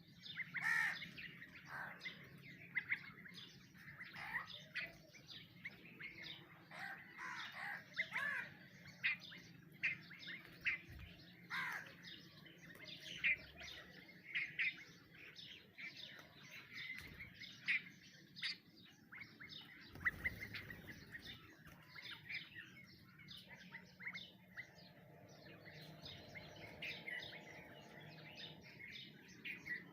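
Several small birds chirping and calling together, a dense run of short overlapping chirps and trills with no break.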